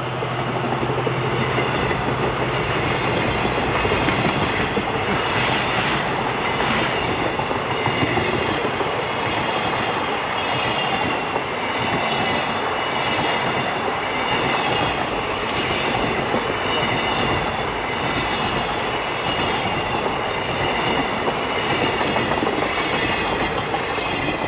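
Freight train wagons rolling past at speed: a steady rumble with the clatter of wheels over rail joints and high, wavering squeals from the wheels on the rails.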